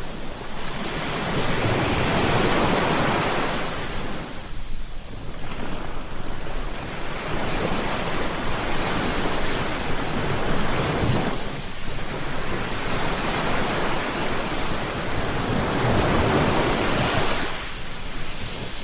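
Ocean surf, waves breaking and washing in, swelling and fading in slow surges about every six seconds.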